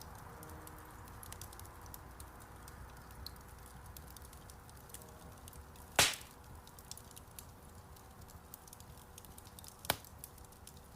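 Wood fire crackling in a fireplace: a steady soft hiss of burning with many small crackles, and a loud pop about six seconds in and another near the end.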